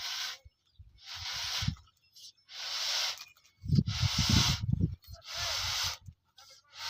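Balloon being pumped up with a hand air pump: air hisses in short, regular strokes, about one every second and a half. Low fluttering rumbles come with some strokes, loudest about four seconds in.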